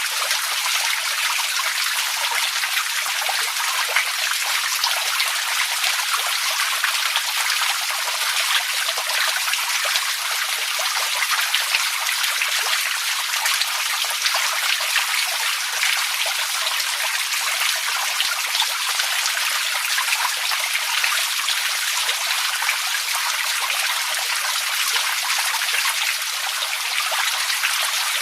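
Running water trickling and splashing steadily, a constant rush dotted with many small droplet splashes.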